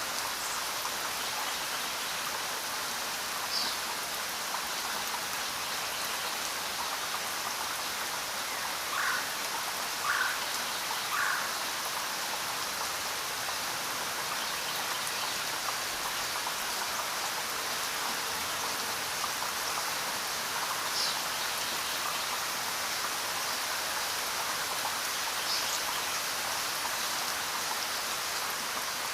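Steady rain falling, an even hiss without pauses. A few brief sharper sounds stand out from it, three in quick succession about nine to eleven seconds in.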